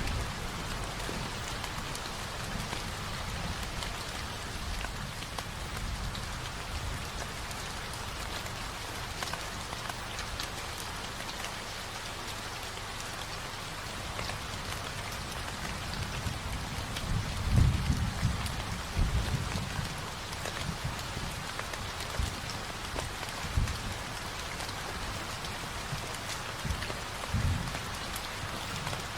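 Recorded steady rainfall, a continuous patter of rain on a surface. A few short low thumps or rumbles come through, loudest about two-thirds of the way in.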